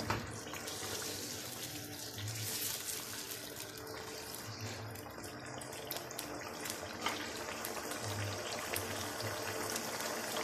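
Chicken in yogurt sizzling and bubbling in a wok on a high flame, a steady hiss with small crackles as the yogurt's water cooks off. A wooden spoon knocks against the pan once at the start.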